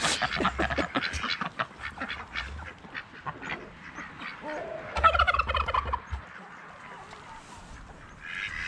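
Backyard fowl calling, with one pitched call about five seconds in. A run of short clicks and knocks fills the first few seconds.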